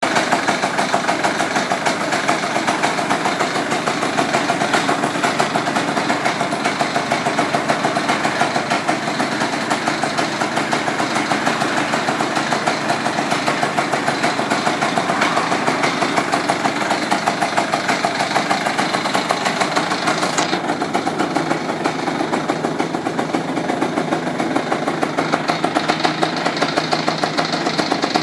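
Yamaha BW'S 100 scooter's 100cc two-stroke engine idling steadily through a stainless-steel aftermarket muffler, an even pulsing exhaust note.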